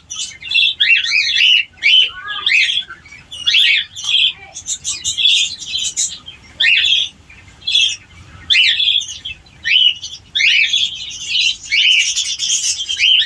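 Cockatiels calling: a busy run of short chirps and harsh squawks, repeated in quick groups with brief pauses between.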